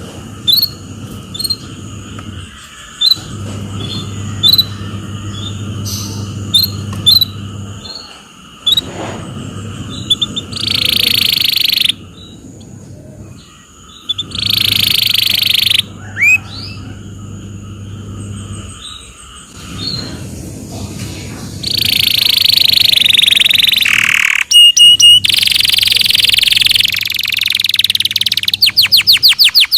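Domestic canary singing: a run of short sharp chirps, then harsh raspy phrases in between, and a fast rolling trill near the end. A low steady hum runs underneath.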